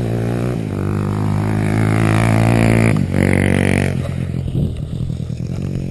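140cc pit bike's single-cylinder engine accelerating, its pitch climbing. There is a brief dip about three seconds in, like a gear change, then another strong burst. About four seconds in the throttle closes and the engine falls to an uneven, rattly off-throttle sound.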